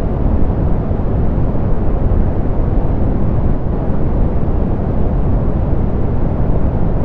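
Steady synthetic pink noise, softened so that most of it sits in the low end: an even, deep rush with no changes or separate sounds.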